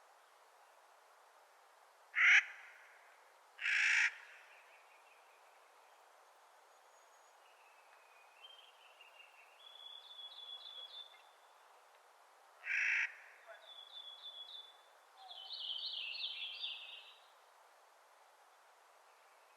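Clark's nutcracker giving three loud, harsh, grating calls, two close together near the start and one about two-thirds of the way through, with softer rattling, chattering note series between and after them over a steady background hiss.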